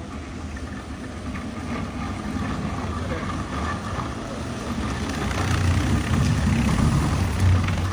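A vehicle engine running, getting louder over the last few seconds.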